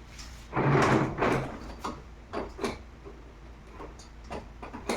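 Shop vacuum parts being handled: a loud scrape about a second in, then a run of light clicks and knocks.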